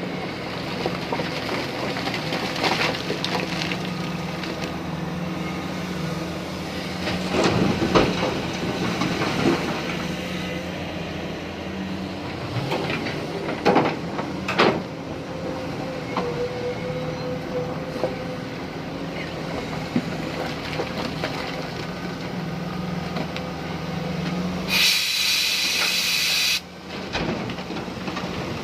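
Tata Hitachi Zaxis 870 LCH excavator at work loading a tipper truck: its diesel engine runs steadily under a low hum, with a few sharp knocks, one about eight seconds in and two close together in the middle. Near the end a loud hiss lasts about two seconds.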